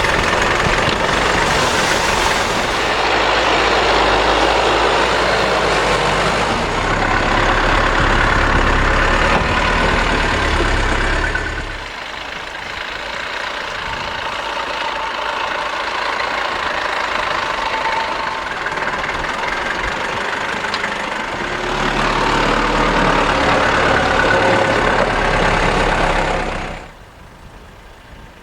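Four-wheel-drive vehicle on Arctic Trucks AT405 radial tyres driving slowly off-road, with engine and tyre noise. The sound eases off about twelve seconds in, builds again later, and drops away sharply near the end.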